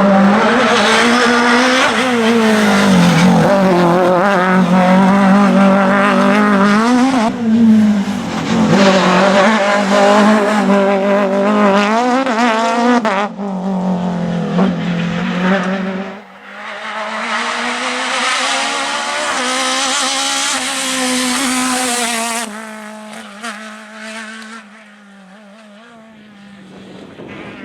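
Renault Clio F2000 rally car at race pace: its four-cylinder engine revving hard, pitch rising and falling through repeated gear changes and lifts, with tyre squeal. The sound changes abruptly several times, and it drops much quieter for the last few seconds.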